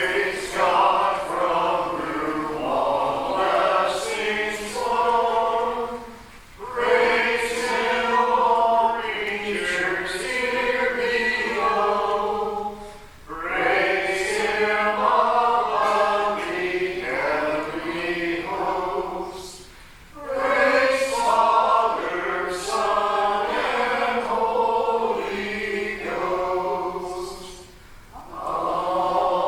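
A church congregation singing together in phrases of about six to seven seconds, with short breaks for breath between them.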